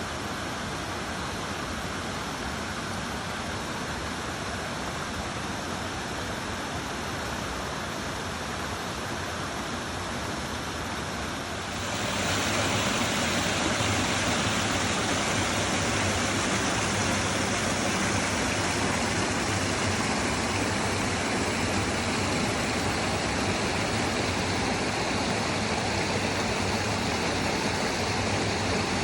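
Rushing mountain stream water, a steady even noise that suddenly becomes louder about twelve seconds in.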